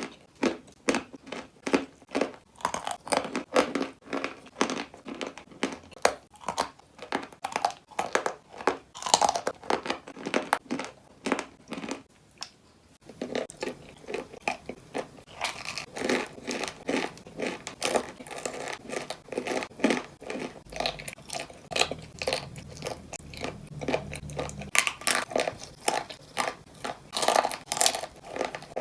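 A person biting and chewing chalk, with repeated dry, sharp crunches several times a second. The crunching pauses briefly about twelve seconds in, then carries on.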